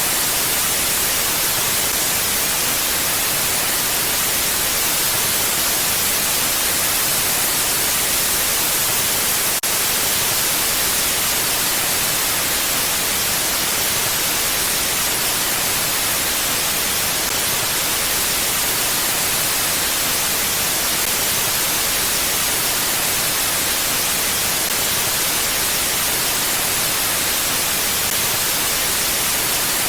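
Steady wind noise: an even, unbroken hiss, brightest in the high range, with no gusts or lulls.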